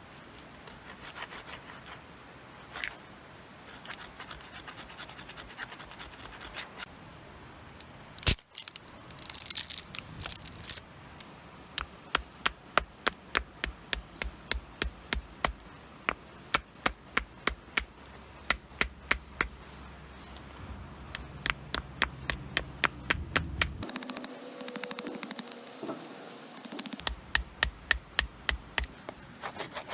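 A sharp stone scraping a wooden stick in quick repeated strokes, about two a second, with a few pauses: shaping wood by hand for a hand-drill fire kit.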